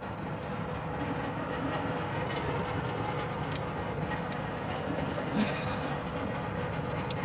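Air conditioning unit running with a steady mechanical hum and a faint steady tone. Its three-phase blower motor has been rewired to turn in the right direction.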